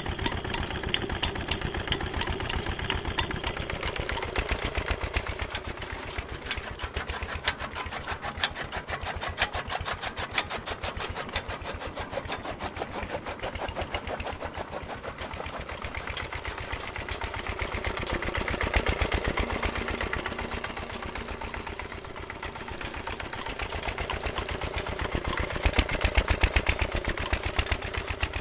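Petter stationary engine running a fodder chaff cutter with a fast, even beat, together with the clatter of the cutter and its belt pulleys. The sound swells louder twice, about two-thirds of the way through and near the end.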